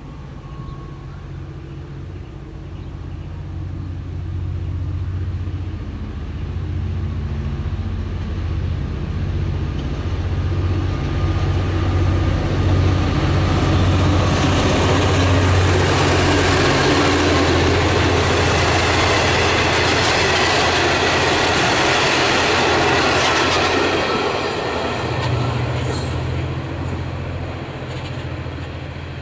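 A diesel train passing on a nearby line: a low engine rumble is there from the start, then the rolling wheel-on-rail noise swells over about ten seconds in the middle and fades away near the end.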